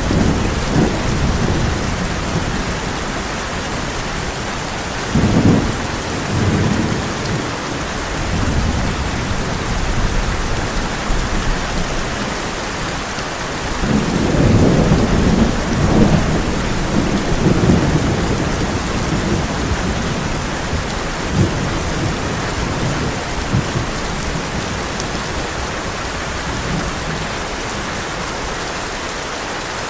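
Heavy rain falling on a tin roof in a steady hiss, with rolling thunder rumbling several times: a strong roll right at the start, another about five seconds in, and the longest from about fourteen to eighteen seconds in, with fainter rumbles after.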